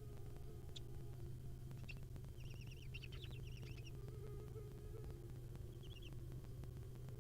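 Faint, high, wavering chirps from young barn owl nestlings, in two short bouts, over a steady low electrical hum from the nest-box camera.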